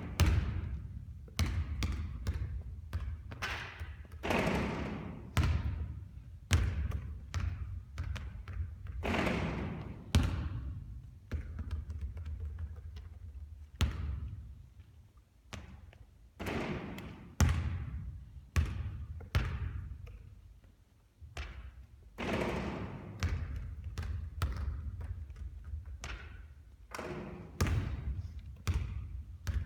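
A basketball bouncing hard on a court again and again, with irregular thuds and slaps, from repeated three-point shooting.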